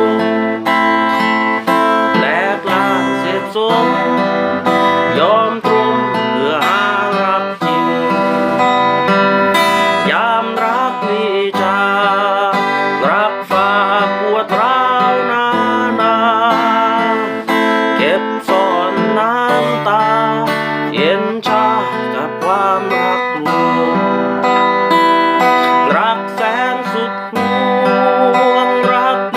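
Acoustic guitar music, strummed and picked, with a melody line over it that wavers in pitch.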